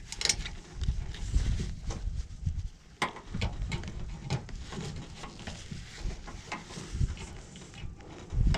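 Scattered light clicks and knocks of hands working on wiring connections at a mini split's outdoor unit, over an uneven low rumble.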